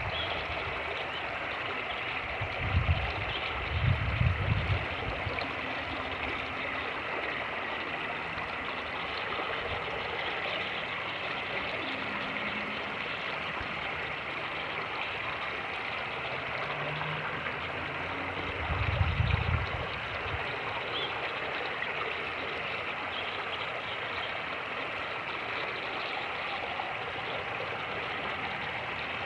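Fast-moving creek rushing steadily over rapids. A few short gusts of wind rumble low on the microphone, a few seconds in and again about two-thirds of the way through.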